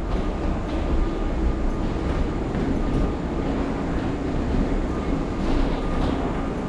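Steady rumble of a moving vehicle, with a faint whine that comes and goes.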